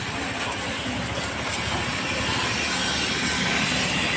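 Tractor engine running, growing gradually louder.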